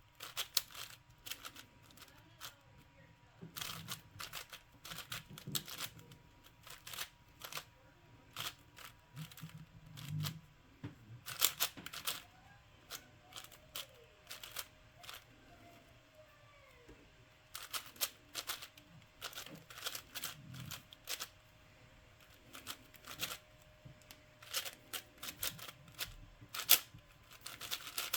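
Plastic puzzle cube being turned fast by hand: quick runs of clicking and clacking as the layers turn, broken by short pauses.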